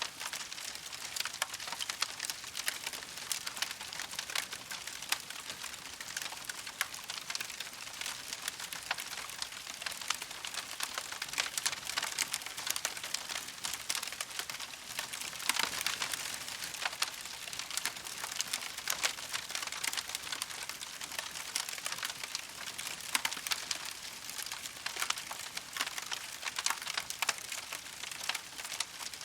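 Campfire crackling steadily: many small sharp snaps and pops over a soft hiss, a little busier about halfway through.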